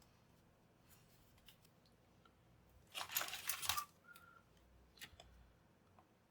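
Hands working on a small plastic device: a few light clicks, then about three seconds in a dense burst of rapid clicking and scraping lasting under a second, followed by a short faint beep.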